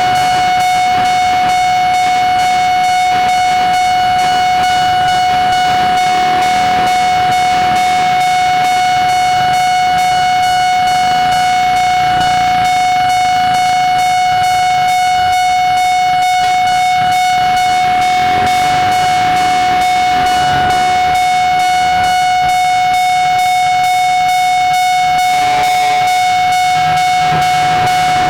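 Railway level-crossing warning bell ringing continuously on one steady high tone, while a train rumbles past over the rails.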